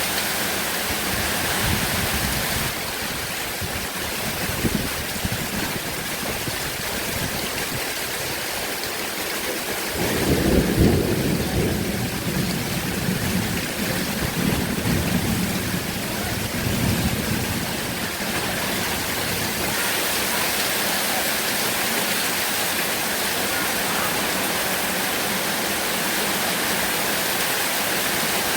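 Heavy rain falling steadily, with a low rumble of thunder that swells about ten seconds in and rolls on for several seconds before fading back into the rain.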